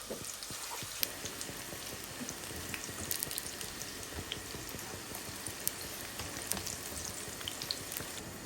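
Onions frying in hot oil in a pan: a steady sizzle with scattered small pops and crackles.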